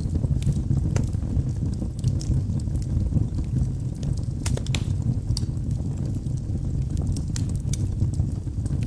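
Logs burning in a fireplace: a steady low rumble of flames with scattered sharp crackles and pops, several a few seconds apart and two close together about four and a half seconds in.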